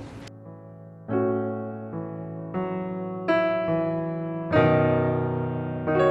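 Background music: soft electric piano chords struck about once a second, each ringing and fading.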